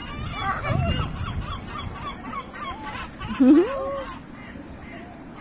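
Geese honking: a run of short, quick calls, then one loud call rising in pitch about three and a half seconds in.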